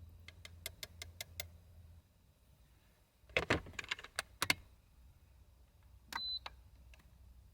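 Small handling noises: a run of light clicks, then a louder clatter about three seconds in, over a faint low hum, and a short high electronic beep near the end.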